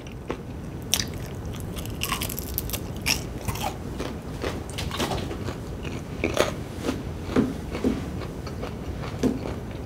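A person biting and chewing crispy fried chicken, close to the microphone: irregular crunches and crackles of the breading.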